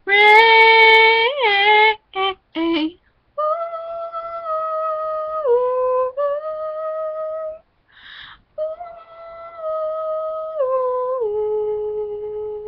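A young woman singing unaccompanied, holding the last word 'rain' on a loud note with vibrato, then softly humming a slow melody of long steady notes that step downward, with a breath in the middle.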